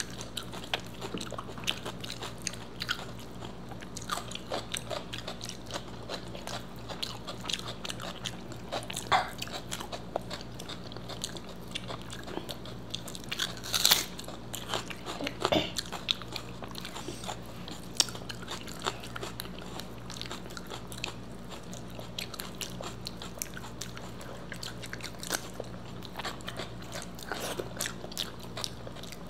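Close-miked eating: two people chewing and crunching fried food such as vegetable pakoras, with a few louder crunches about halfway, over a faint steady hum.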